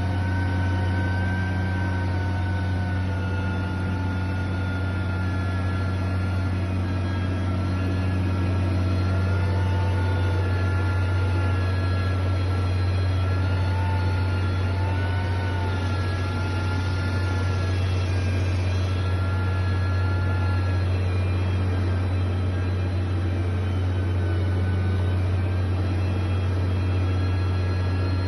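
Heavy machine engine running at a steady, unchanging speed: a constant low drone with no revving, knocks or pauses.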